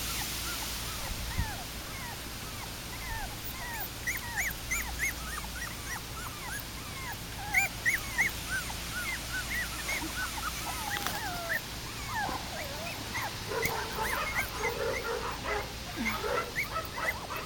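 Three- to four-week-old Welsh terrier puppies whimpering in many short high squeaks, each rising and falling in pitch, several a second at times.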